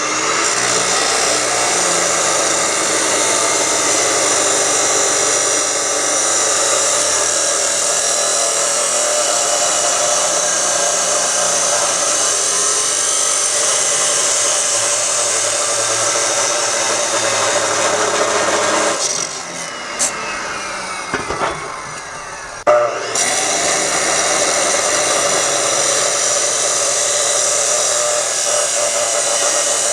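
Power tool running under load on the truck's steel exhaust pipe during a muffler swap. It runs steadily, then eases off for about four seconds, with a falling tone as it winds down, and starts again.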